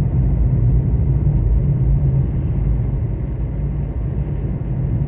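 Steady low rumble of a car on the move, heard from inside the cabin: engine and road noise with no other distinct events.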